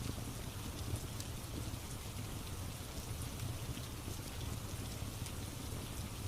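Steady rain with a low, even rumble, and scattered faint crackles from a wood fire in a fireplace.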